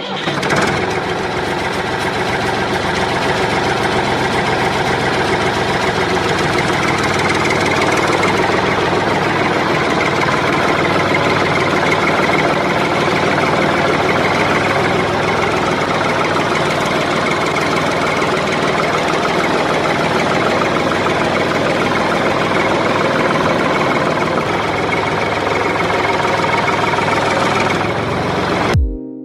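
Small DC motor of a homemade toy tractor water tanker running steadily, then cutting off abruptly near the end.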